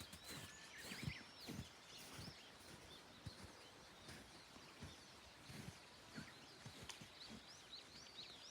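Small birds chirping faintly, many short quick calls that bend up and down in pitch, getting busier near the end, with soft low thumps underneath.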